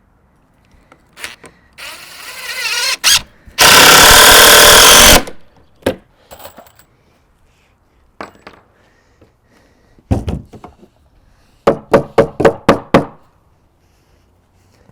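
Power tools working wood during framing: a tool spins up about two seconds in, then runs loud and steady for about a second and a half. Near the end comes a quick run of about eight sharp strikes.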